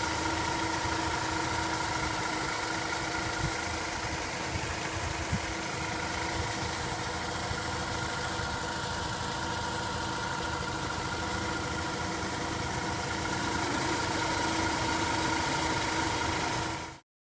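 Mazda RX-8 rotary engine running at a steady idle, a freshly rebuilt engine that tested low on compression. It cuts off suddenly near the end.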